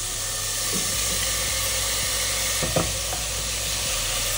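Chopped onion and tomato sizzling steadily in hot oil in a steel pressure cooker as moong dal is tipped in and stirred through, with a couple of light spatula knocks.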